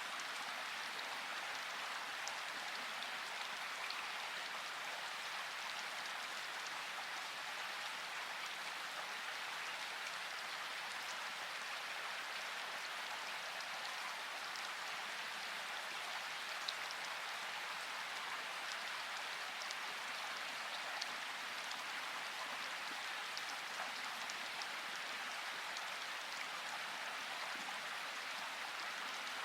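Steady rainfall, an even hiss with occasional separate drop ticks.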